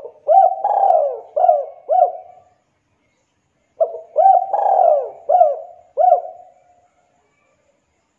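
Spotted dove (tekukur) cooing loudly: two phrases about four seconds apart, each a run of about five coo notes with a longer, drawn-out note in the middle.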